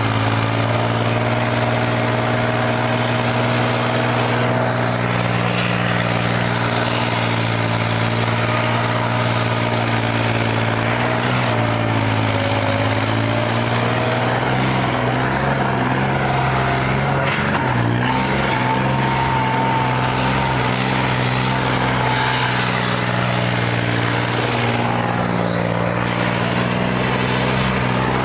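Tractor diesel engine running steadily under load, with a brief waver in engine speed about halfway through.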